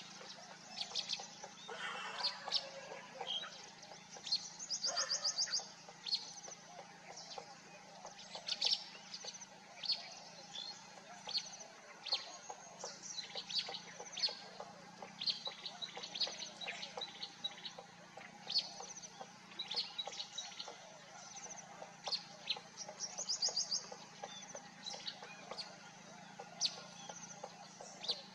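Birds calling: many short, high chirps, with a quick trill about five seconds in and another later on, over a low steady hum.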